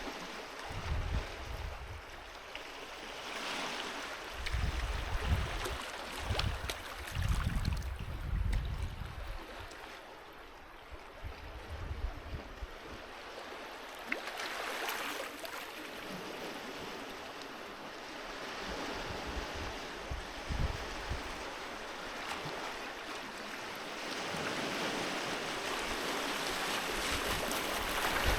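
Sea waves washing onto a beach: steady surf noise that swells and falls back every ten seconds or so, with the biggest wash near the end. Low rumbling gusts in the first nine seconds.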